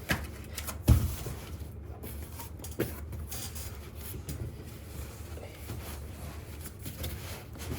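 Cardboard box being handled and worked open: rubbing and scraping of cardboard, with a loud thump about a second in and a smaller knock near three seconds.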